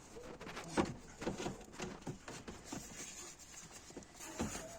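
Irregular light clicks and knocks, the sharpest about a second in and another near the end, as of hand tools being handled on a car.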